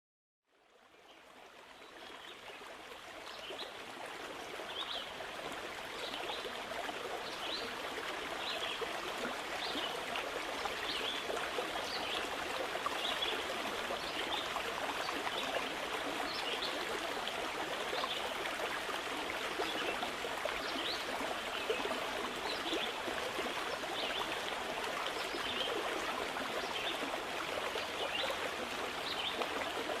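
Steady rushing and trickling of flowing water, like a stream, fading in over the first few seconds. A faint short high chirp repeats about once a second throughout.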